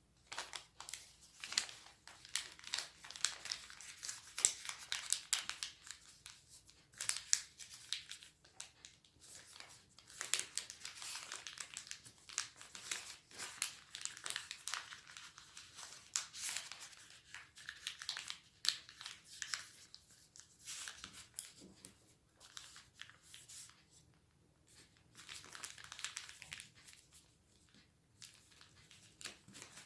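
A sheet of origami paper being folded and creased by hand: irregular crinkling and rustling with short sharp creasing clicks, easing off into quieter spells near the end.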